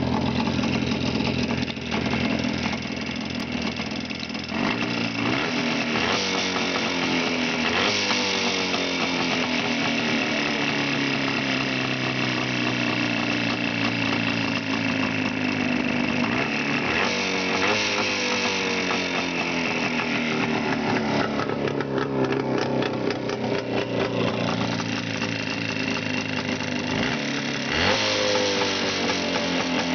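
A vehicle engine running with a knock, blipped up in revs about four times and falling back to idle each time. The owner cannot tell what is causing the knock.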